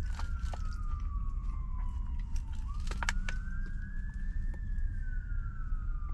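Police car siren in a slow wail, falling in pitch, rising again a little over halfway, then falling once more. It plays over a steady low rumble, with a few sharp clicks.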